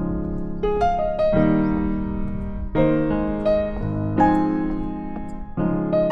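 Background music played on piano or electric piano: gentle chords struck about every second and a half, each fading away before the next.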